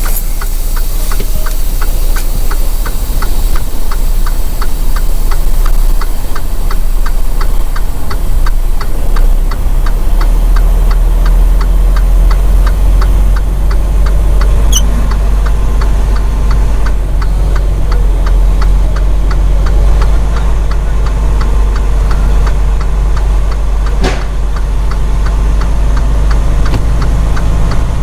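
Semi truck's diesel engine running steadily with a strong low rumble, over a regular light ticking about three times a second. A sharp click sounds about halfway through and another near the end.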